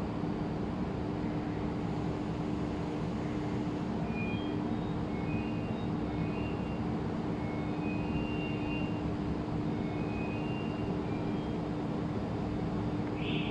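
Steady mechanical hum with a constant low tone, like a vehicle running, with short high chirps scattered through the middle.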